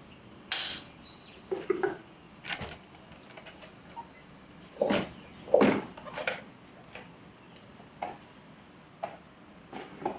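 Irregular knocks and clatters of hard objects being handled and set down, a dozen or so separate strikes, the loudest a pair about five seconds in.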